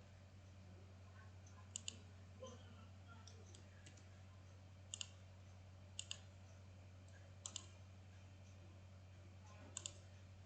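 Computer mouse clicking about five times, each a quick double click, spaced one to three seconds apart, over a faint steady low hum.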